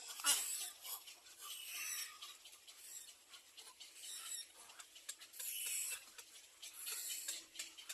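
Young birds calling in high, scratchy bursts of about half a second to a second, repeating every second or two.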